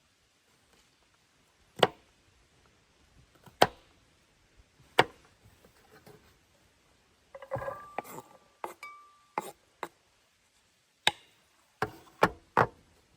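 Sharp, separate chopping strikes on wood, a few seconds apart at first, then a quick cluster with a brief ringing tone about halfway through, and three or four closer strikes near the end.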